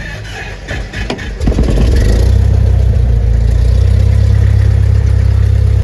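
Single-engine light aircraft's propeller engine being started: the starter cranks it unevenly for about a second and a half, then it catches and runs loud and steady.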